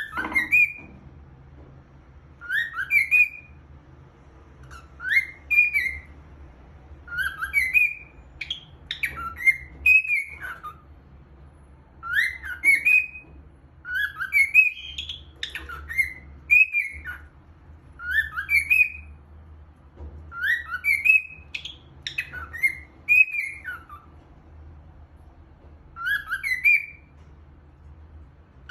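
Cockatiel whistling its song: short phrases of rising, gliding whistles, repeated about every two to three seconds.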